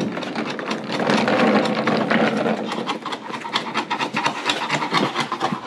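Hand scraper scraping loose, peeling gelcoat off a fibreglass boat hull in quick repeated strokes, several a second.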